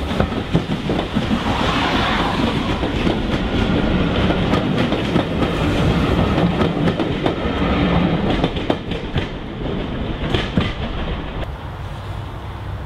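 Steam-hauled passenger train's coaches rolling past close by, the wheels clicking steadily over the rail joints. The sound eases as the last coach goes by and drops to a quieter level near the end.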